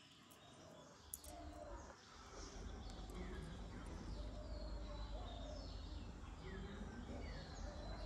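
Birds chirping in a series of short, falling chirps that come in about two seconds in, over a low steady background rumble.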